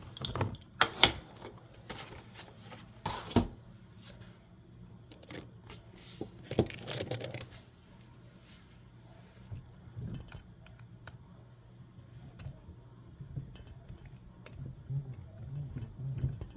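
Scattered clicks and light knocks of plastic and metal RC car parts being handled while wheels are fitted, with a short rustle about seven seconds in.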